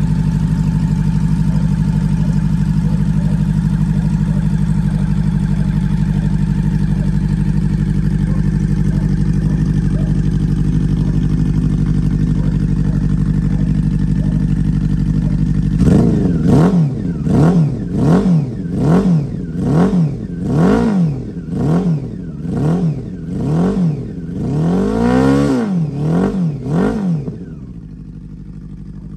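Honda CB400SF Super Four's inline-four engine, breathing through an LCI aftermarket muffler, idling steadily, then blipped about a dozen times at roughly one rev a second, with one longer rev near the end before the sound drops away.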